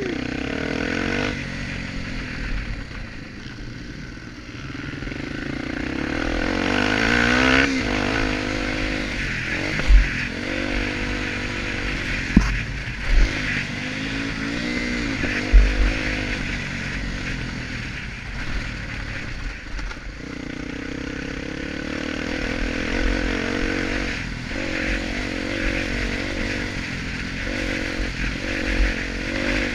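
Honda XR250 Tornado's single-cylinder four-stroke engine revving up and down repeatedly as the motorcycle is ridden around a motocross track. A few short low thumps come in the middle.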